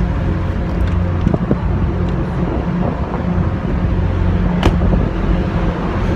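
Steady low engine drone with a constant hum, and one sharp click about three-quarters of the way through.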